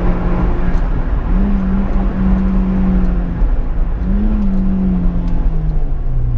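Opel Corsa GSi rally car's engine running hard under load on a special stage, its note dipping briefly twice and recovering, then falling steadily near the end as the car slows.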